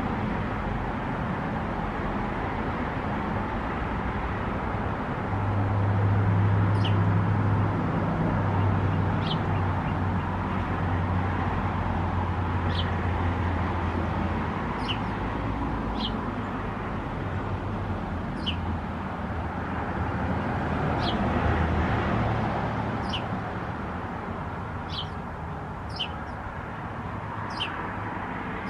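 Small birds chirping, short high notes about every second or two, over a steady low rumble of vehicle traffic that swells for several seconds early on.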